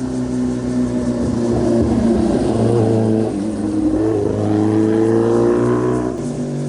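Motorcycle engine running past at speed, its pitch falling and then rising again about three and a half seconds in as it comes off the throttle and accelerates.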